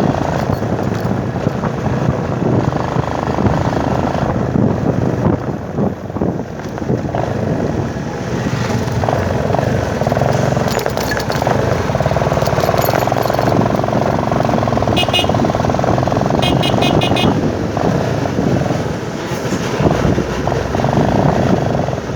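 Motorcycle riding along a road: its engine's steady drone under a dense rush of noise.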